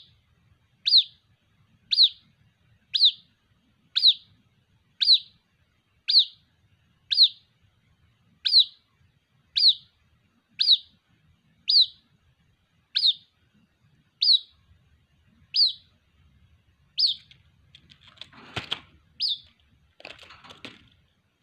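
A white-breasted waterhen chick giving single high, downward-slurred peeps about once a second in an even series, calling for its parent. Near the end, two short bursts of rustling noise come between the last peeps.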